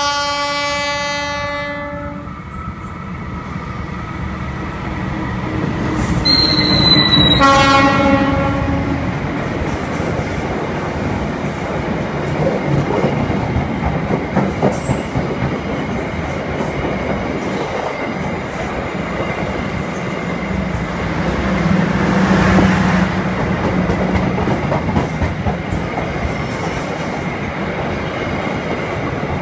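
Diesel locomotive horn sounding one long blast, then a second blast about six seconds in, as a passenger train comes through; the loud rumble and clickety-clack of the coaches rolling past on the rails then continue steadily.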